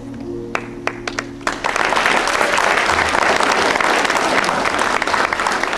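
Audience applause after the final held chord of a song. A few scattered claps come in under the last notes, then it swells into full clapping about a second and a half in.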